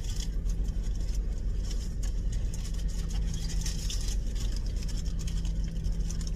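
Car engine idling, heard from inside the cabin as a steady low hum, with scattered light clicks and rustles over it.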